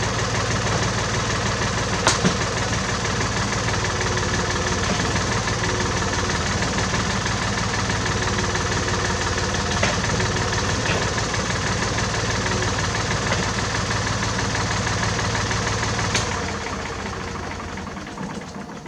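Engine of a 1967 David Brown tractor idling steadily, then shut off about sixteen seconds in and dying away. There are sharp clicks about two seconds in and again as it stops.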